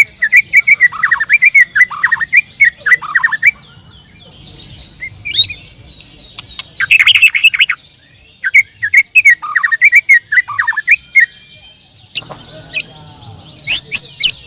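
Several canaries singing together in rapid chirps and trills, in bursts broken by short lulls.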